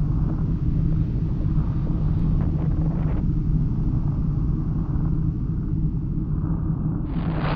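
Steady low rumble with a constant deep hum. About seven seconds in, a loud hiss cuts in suddenly on top of it.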